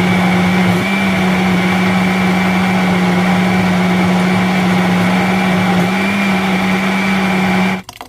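Electric kitchen blender running steadily at high speed, blending tomatoes and peppers, with a loud motor hum whose pitch shifts slightly a couple of times; it cuts off suddenly near the end.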